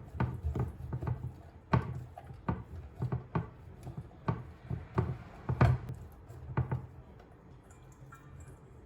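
Irregular light knocks and taps of kitchen items being handled, about two a second, dying away about seven seconds in.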